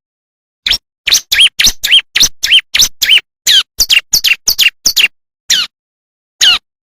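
Bar-winged prinia (ciblek) calling in a quick series of short, sharp, high chirps, about three a second. Each note arches up and then down in pitch.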